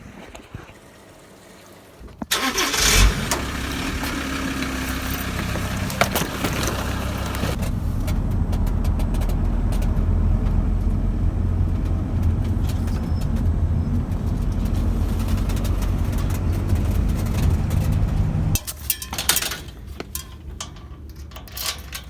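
Honda 110 motorcycle engine starting suddenly and then running while ridden, with a loud rush of noise over it for the first few seconds, then a steady low drone. The engine cuts off about 18 seconds in, followed by a few light clicks and clatter.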